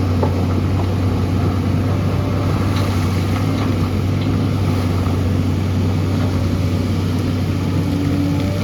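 Diesel engine of a SANY excavator running steadily with a constant low hum, with a few faint clinks over it.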